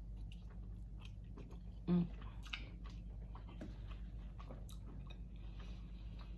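A person chewing king crab meat close to the microphone, with many small wet mouth clicks. There is a short voiced "mm" about two seconds in.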